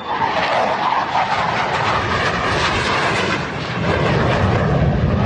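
Loud aircraft engine noise: a steady rush that shifts deeper about four seconds in.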